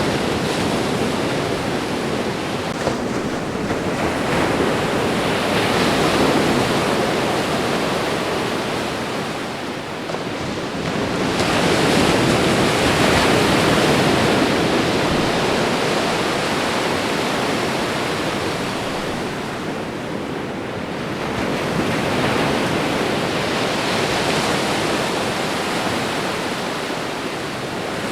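Ocean waves breaking and washing on a shore, a steady rush of surf that swells and eases slowly, with louder surges about every ten seconds.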